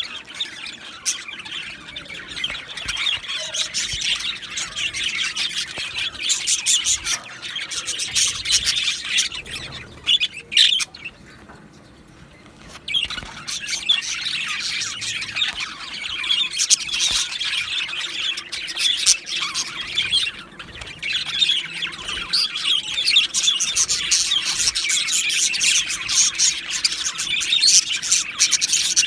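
Two male budgerigars chattering: fast, continuous warbling and chirping with sharp squawks mixed in, broken by a pause of about two seconds near the middle.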